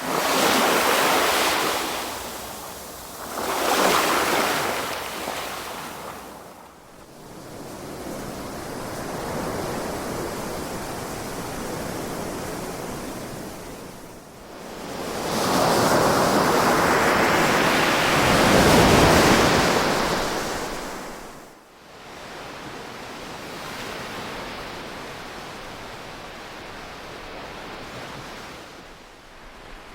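Ocean waves breaking and washing up the shore in repeated surges: two short rushes in the first five seconds, a longer, softer wash, then the loudest wave about halfway through, easing to a gentler wash near the end.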